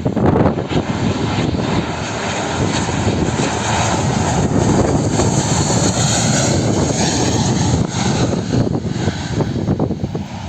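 Jet engines of an Airbus A320-232, IAE V2500 turbofans, running loud as the airliner lands. The noise and its high whine swell to a peak in the middle and ease off toward the end.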